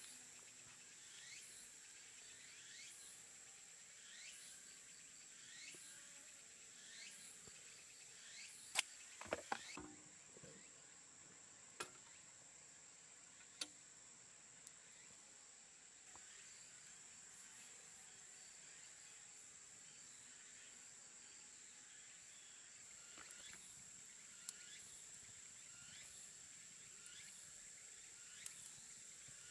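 Faint insects calling: a steady high drone with a chirp repeating about every second and a half that fades out in the middle and returns near the end. A few sharp clicks come about a third of the way in, the first the loudest.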